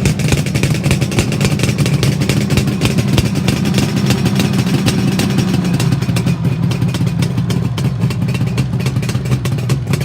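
1977 Suzuki GT550A air-cooled two-stroke triple running steadily at idle through Gibson 3-into-4 expansion-chamber exhausts, warming up after a cold start.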